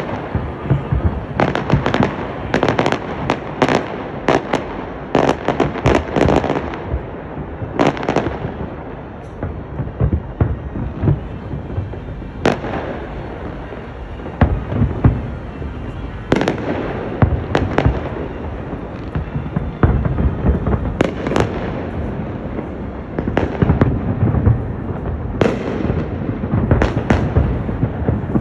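Fireworks display: volleys of sharp bangs and crackles, thick for the first several seconds, thinning out in the middle, then coming thick again in the second half.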